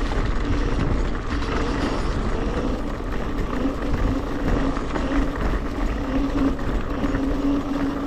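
Electric scooter riding over rough ground: a steady motor whine under a constant rumble of wind and tyre noise.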